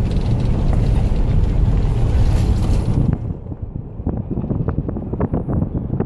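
Wind buffeting the microphone of a camera filming from a moving car, a loud rumble that drops about halfway through to a duller sound with lots of small crackles.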